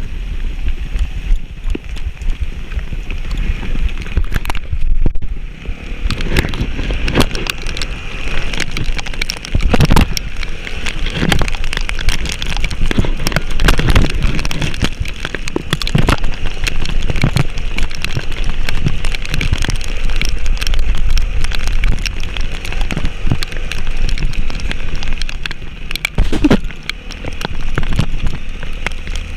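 Heavy rain with dense crackling drops striking close to the microphone, over a steady low rumble.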